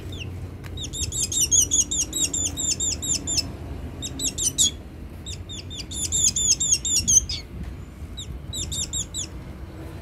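A hungry black bird calling in four quick runs of short, high, downward-sliding chirps, several a second, with brief pauses between the runs.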